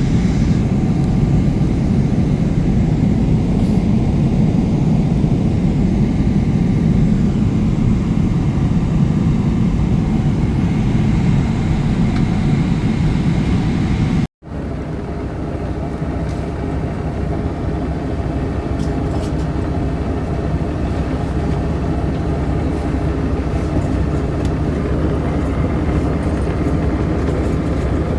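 Boeing 777-300ER cabin noise: a loud, steady rumble of jet engines and airflow. It breaks off at a cut about 14 seconds in, then carries on a little quieter with a steady hum.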